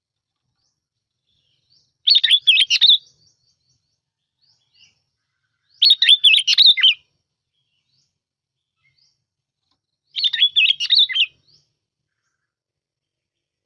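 A bulbul (Vietnamese 'bông lau') singing three short, bubbling song phrases, each about a second long, spaced about four seconds apart.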